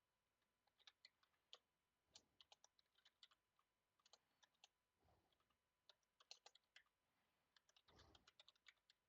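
Faint computer keyboard typing: irregular runs of quick key clicks with short pauses between them.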